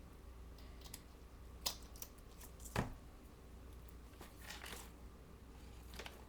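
Scattered light taps and rustles from craft pieces being handled on a work table: about five short clicks and a brief papery rustle, over a faint steady hum.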